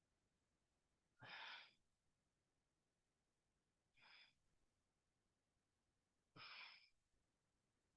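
Faint, forceful breaths out, three of them about two and a half seconds apart, paced with the repetitions of a Pilates double leg stretch.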